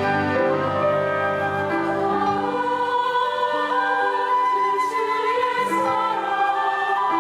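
Sacred choral music: an orchestra with strings and flute playing sustained chords, with a choir singing.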